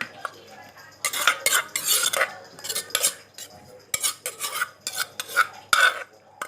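Spoon scraping and clinking through a spicy seafood salad in irregular strokes as it is scooped out of its bowl onto a tray.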